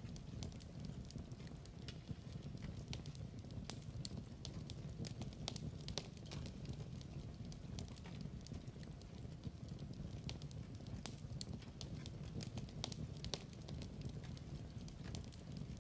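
Log fire crackling in a fireplace: irregular sharp pops and snaps over a steady low rumble of burning.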